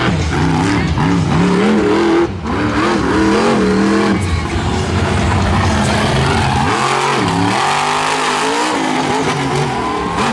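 Monster truck engine running loud under hard throttle, its pitch climbing and falling again and again as the throttle is worked, with a brief lift off the throttle about two seconds in.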